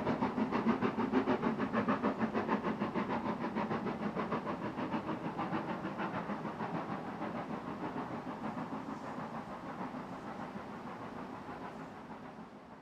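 Steam locomotive exhaust beats at a steady rhythm of about four a second, fading steadily as the engine draws away until they die out.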